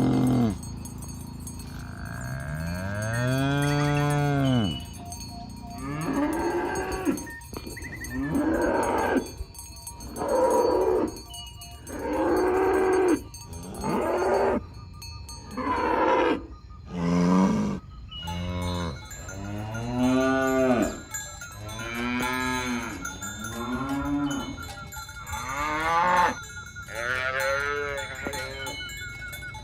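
Cattle mooing over and over, one call after another with short pauses, each moo rising and then falling in pitch.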